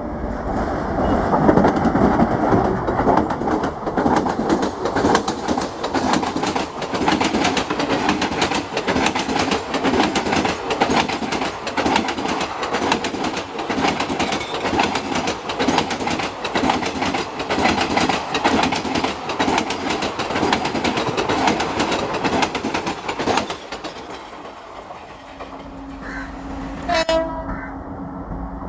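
A train passing close by, its wheels clattering over the rail joints in a quick, steady rhythm. The clatter cuts off about twenty-three seconds in, and a steady low tone follows near the end.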